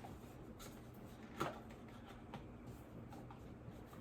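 Faint handling sounds of a small packaged item being picked up and turned over: light scratchy rustling with a few soft clicks, the clearest about a second and a half in.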